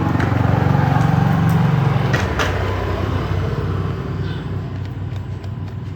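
An engine running steadily with a fast, even firing beat, loudest over the first two seconds and then easing slightly; a couple of short clicks about two and a half seconds in.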